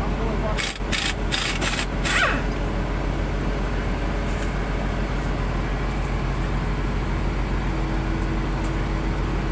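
An engine running steadily, with a quick run of five short, sharp pneumatic bursts about a second in, typical of a pneumatic impact wrench bolting replacement cutter blades onto a sugarcane harvester.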